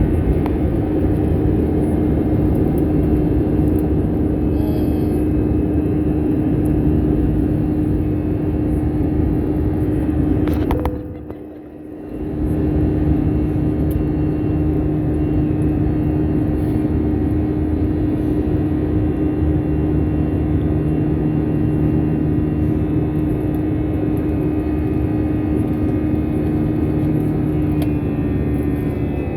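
Airbus A320 cabin noise during takeoff: the jet engines at high thrust give a loud, steady rumble with a constant hum, and the cabin shakes over a bumpy runway. The sound briefly dips about eleven seconds in, then comes back.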